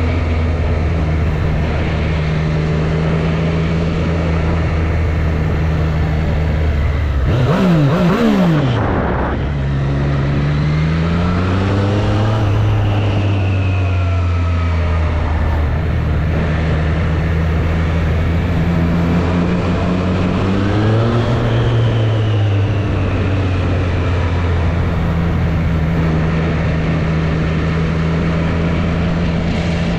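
2024 Triumph Street Triple 765 RS inline three-cylinder engine running steadily at low revs. About a third of the way in there is a quick blip of revs up and down, then the pitch rises as the bike pulls away. The revs rise briefly again later.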